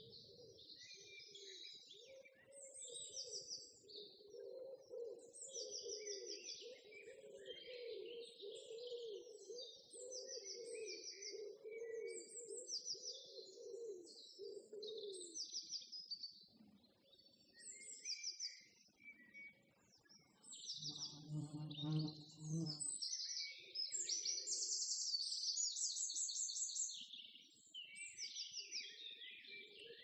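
Several songbirds singing and chirping, with many short high trills overlapping, busiest and loudest in the second half. Under them a low wavering drone runs through the first half, and a brief low-pitched call sounds about two-thirds of the way in.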